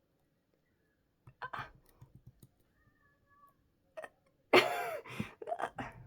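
A few soft clicks, then a loud wordless vocal sound lasting about a second and a half, near the end.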